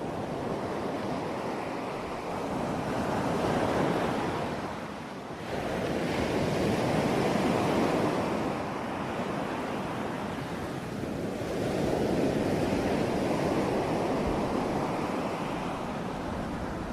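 Ocean waves breaking on a shore: a continuous rush of surf that swells and eases, with three louder surges of breaking water.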